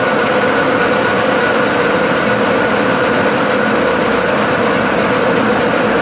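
A metal-cutting machine tool running steadily under cut, an even mechanical noise with a constant whine at two pitches.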